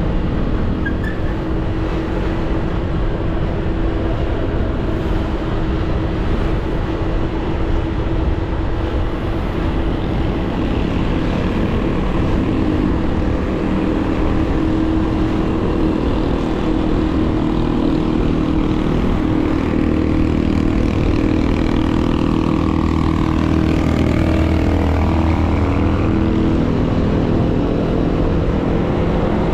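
Motorcycle ride heard from a mounted action camera: a steady engine drone under road and wind rush. About 23 seconds in, a pitch sweeps up and down in the higher range, like another vehicle going past.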